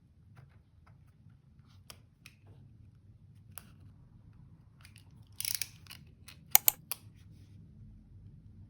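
Close-up paper and stationery handling on a desk: faint scattered taps, then about five seconds in a brief rustling scrape followed by three sharp clicks.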